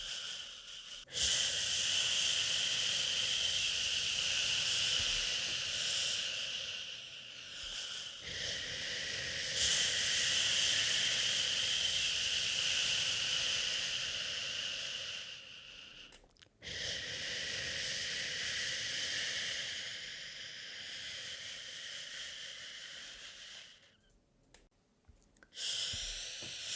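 A person shushing, a long breathy "shhhh" held for about seven or eight seconds at a time, with short breaks between strokes. It is the rhythmic shushing used to soothe a crying baby.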